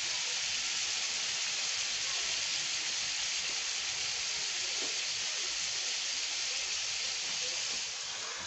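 Chicken liver sizzling in a little water on a hot iron tawa, a steady steamy hiss. Near the end it grows slightly quieter as a glass lid is set over the pan.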